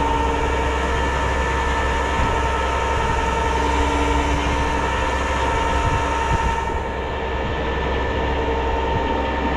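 Rollback tow truck's engine held at raised revs to drive its bed and winch hydraulics, a steady whining hum that holds one pitch throughout.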